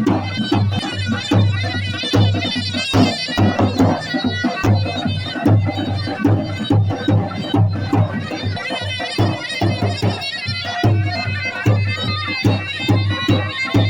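Traditional folk music: a loud reedy wind instrument playing a wavering melody over steady, rapid drum beats.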